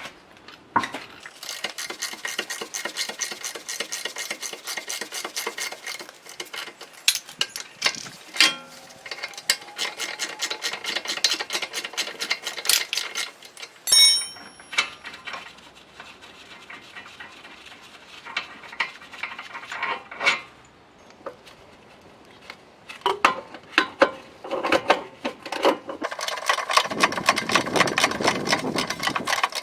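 Hand tools working on metal car parts: long runs of rapid, even clicking, with a sharp ringing metal clink about halfway through and scattered knocks.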